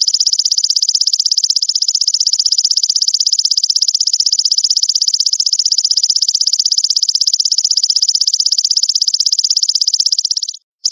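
Belalang mas grasshopper stridulating: a continuous, high-pitched, very rapid buzzing trill. It cuts out briefly near the end, then starts again.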